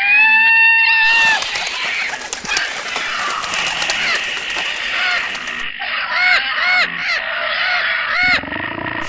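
Bird calls: a long call at the start, falling slightly in pitch, then a run of short arched calls, each with several stacked notes, repeating about every half second from about six seconds in.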